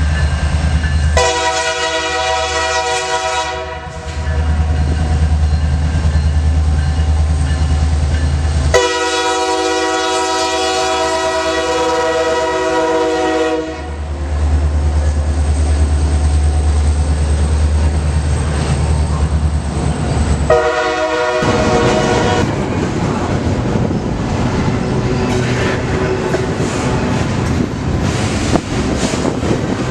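A diesel freight locomotive sounds its multi-chime air horn in three blasts: two long and then one short, with the engine's low rumble between them. After the last blast the train's cars roll past with a steady rattle of wheels on rail.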